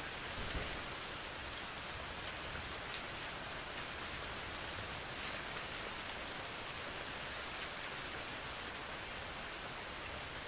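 Steady heavy rain falling, with faint scattered drop ticks and a brief low thump about half a second in.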